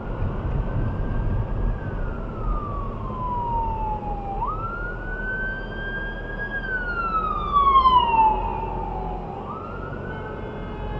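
Emergency vehicle siren wailing in slow cycles, each a quick rise in pitch followed by a long slide down, over steady road and engine rumble.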